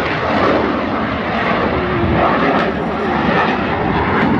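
Airplane engine noise from an aircraft flying past overhead, a steady loud rushing sound.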